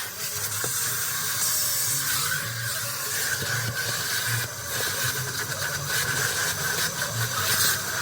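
Car vacuum hose running while cleaning the car's interior, a steady rush of sucked air with small uneven low bumps as the nozzle moves.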